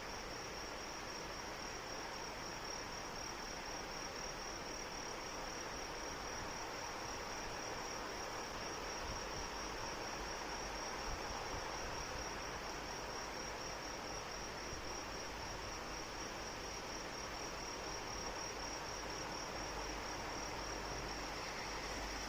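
Crickets trilling steadily at one high pitch over a continuous hiss of falling rain.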